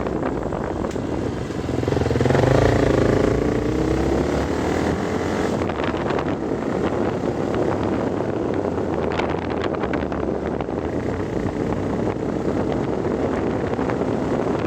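Vehicle engine running with steady wind and road noise, heard from on board; the engine note wavers up and down for a few seconds about two seconds in.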